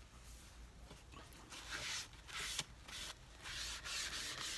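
Paper being handled and rubbed on the work surface: irregular rustling and scraping, with a few small sharp taps.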